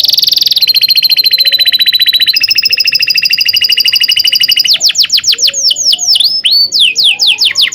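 Domestic canary singing: long, fast rolled trills held at a steady pitch, shifting to a new pitch about two seconds in and again near three seconds, then a run of quick downward-sweeping chirps.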